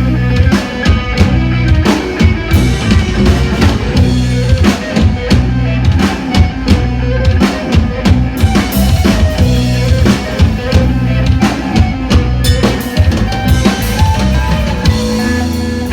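A live band playing an instrumental passage: a drum kit keeps a steady beat of kick and snare under sustained bass and guitar or synth lines.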